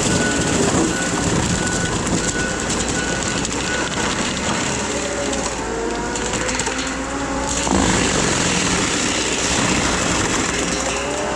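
Case skid steer's engine and Shearex mulching head running under load, cutting weeds, the pitch rising and falling as the machine works. A short beep repeats about twice a second through the first few seconds.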